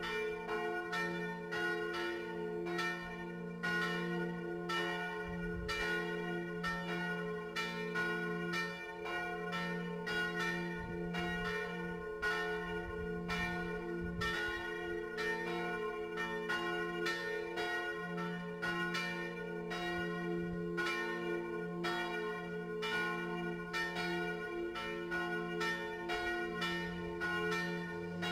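Swinging bronze church bells ringing to call people to a service, struck over and over in a quick, steady rhythm, each stroke ringing on into the next.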